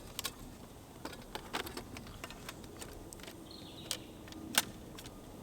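Small metal parts of a folding candle lantern clicking and clinking as it is fitted together by hand: scattered light clicks, the sharpest about four and a half seconds in.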